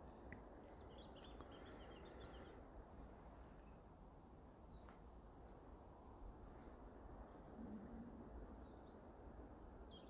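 Near silence: faint background hiss with small birds chirping faintly in the distance, short scattered chirps throughout.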